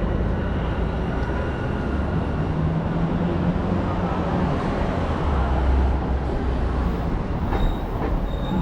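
Low, steady rumble of a large vehicle passing on a city street, with faint steady tones above it.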